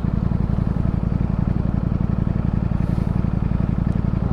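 Ducati Streetfighter V4 engine running steadily as the motorcycle is ridden, a dense, even stream of firing pulses with no rev change.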